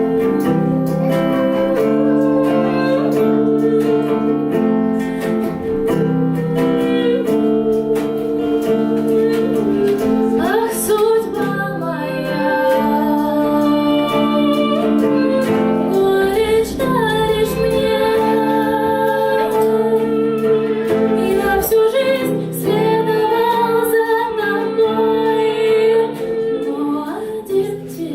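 A song: a high voice singing over held chords with some plucked-string accompaniment.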